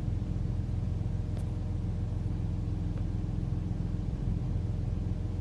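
Car engine idling steadily during a cold start with the clutch out, running on its own after a hard start with long cranking.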